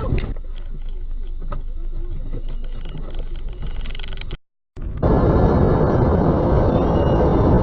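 Car driving noise picked up by a dashcam: a low engine and road rumble with a few light knocks. It cuts off briefly about four and a half seconds in, then comes back as louder, steady road and wind noise.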